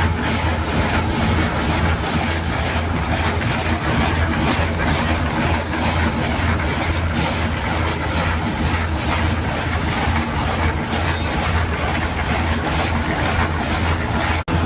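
Steady mechanical running noise, a machine with a low hum and a faint rapid clatter, cut off abruptly just before the end.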